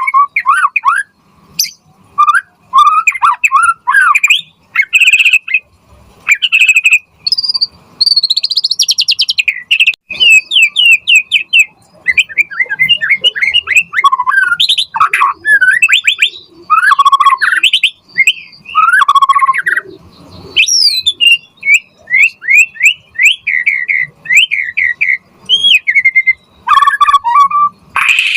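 White-rumped shama singing a fast, varied song: whistled phrases and runs of quickly repeated notes, broken by short pauses.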